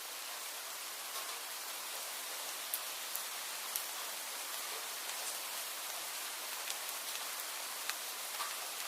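Steady rain falling, an even hiss broken by scattered sharper ticks of individual drops landing.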